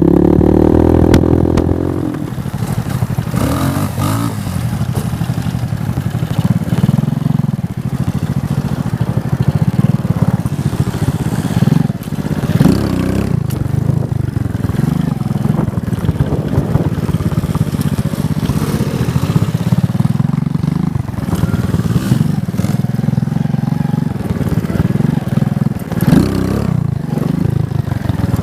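Motorcycle engine revved hard in the first two seconds, then running on with the throttle opening and closing as the bike rides.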